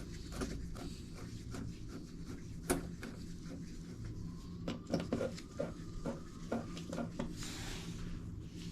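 Light clicks and taps of tools and pipe parts being handled: one sharp click about three seconds in, then a run of irregular taps in the second half, over a steady low hum.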